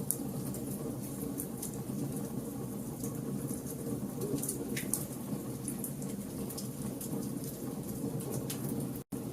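Wood fire burning: scattered sharp crackles and pops over a steady low rumble of flames. The sound drops out for an instant near the end.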